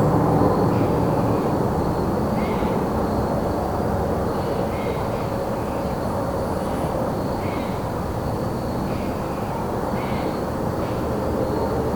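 Crickets trilling steadily at a high pitch while a bird gives short calls over and over, about once a second. Underneath runs a steady rumble of distant traffic.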